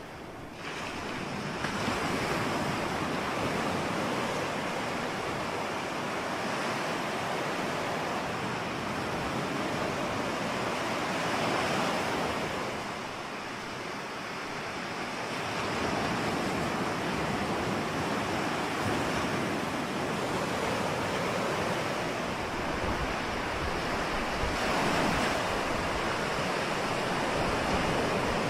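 Ocean waves breaking and washing on a shore, a continuous surf noise that swells and eases in slow surges about every ten seconds, with some wind buffeting the microphone.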